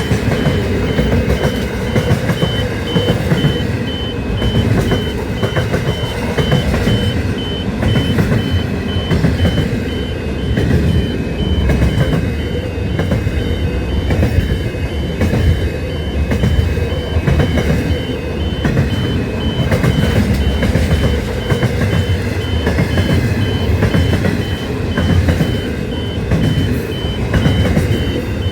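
Train running, a heavy low rumble that swells and eases every couple of seconds, with a thin steady high-pitched tone held through most of it.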